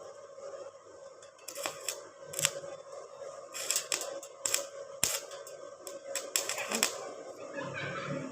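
A series of sharp, irregular metal clicks and taps from hand tools working aluminium fence parts, about a dozen strikes spread unevenly.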